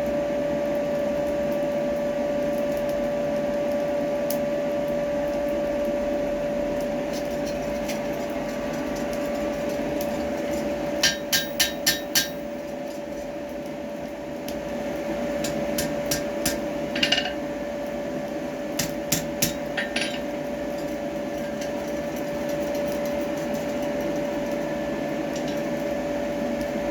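Hammer blows on hot steel tongs at the anvil, each strike ringing: a quick run of four strikes about eleven seconds in, then a few scattered strikes some seconds later. A steady machine hum runs underneath.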